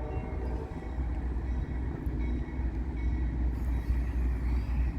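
Norfolk Southern coal train rolling past, a steady low rumble of wheels and cars on the rails.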